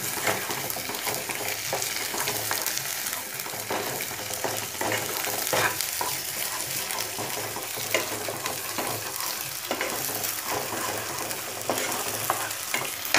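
Thick spinach purée sizzling in oil in a nonstick kadhai while a wooden spatula stirs it, with irregular short scraping strokes over a steady fry. The spinach has cooked down to the point of releasing its oil.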